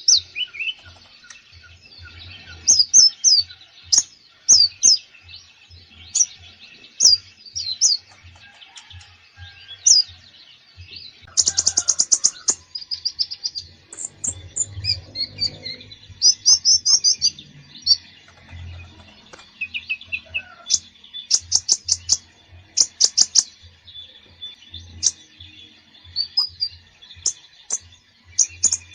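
A konin songbird singing busily ('gacor full isian'): a varied song of high, sharp chirps, whistled slurs and rapid trills packed with phrases copied from other birds. The trills come in quick runs about a third of the way in and again about three quarters of the way through.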